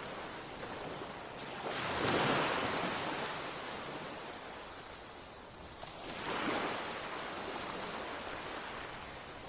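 Sea waves breaking on a shore in a steady wash. Two waves swell and break, one about two seconds in and a smaller one about six and a half seconds in.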